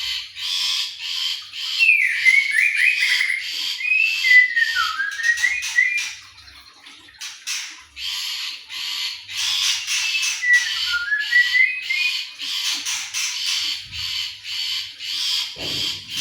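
An anis thrush singing loudly: a fast run of harsh chirps with clear whistled notes sliding down between them, twice in the song. A couple of low knocks near the end.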